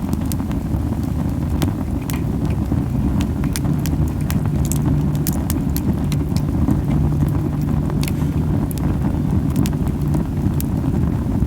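Camellia wood campfire burning hot, with a steady low rumbling, puffing flame noise under frequent sharp crackles and pops. The strong puffing comes from the fire burning very fiercely.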